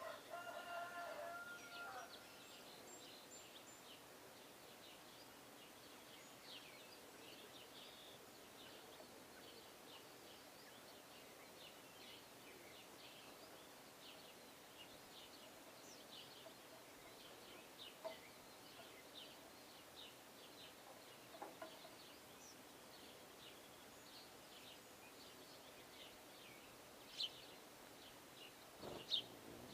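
Faint bird calls at a feeder: many short, high chirps throughout, with a louder, longer pitched call in the first two seconds.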